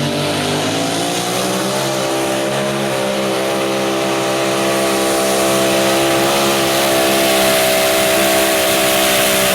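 Modified mini pulling tractor's engine at full throttle during a pull. Its pitch climbs over the first couple of seconds, then holds high and steady.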